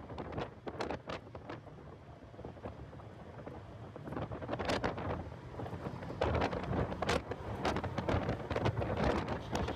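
Wind buffeting an in-car camera's microphone in a car lapping a race track, over the car's steady running noise. The gusting eases for a few seconds about a second in and grows loud again from about six seconds.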